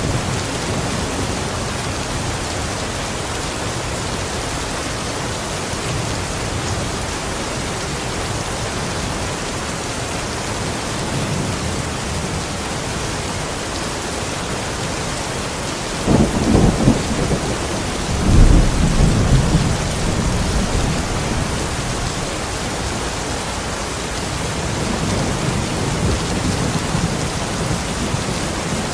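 Steady heavy rain, with thunder rumbling about sixteen seconds in, again a couple of seconds later, and more faintly near the end.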